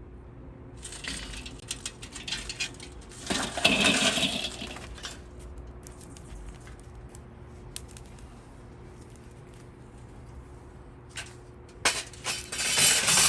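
Chunks of lump charcoal clattering and clinking against each other in two bouts, the first longer and louder, the second short near the end.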